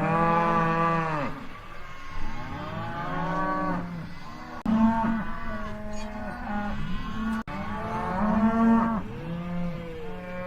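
Cows mooing: a string of about five long, drawn-out moos that rise and fall in pitch, some overlapping one another, with abrupt cuts between a couple of them.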